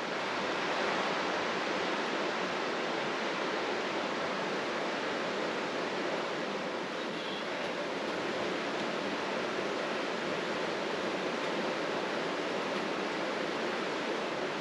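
Steady rushing of a river's flowing water, an even noise with no breaks or changes in level.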